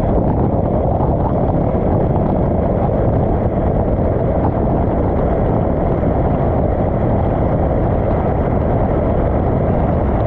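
Tap water running steadily into a filling sink: a loud, even, dull rush, strongest in the low range.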